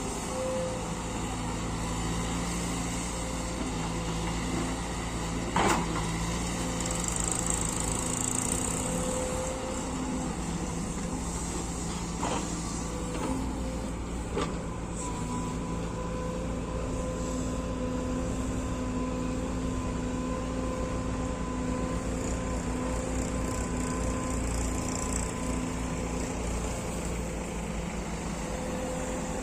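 Diesel engines of a backhoe loader and a tractor running steadily, with a few sharp knocks about six, twelve and fourteen seconds in.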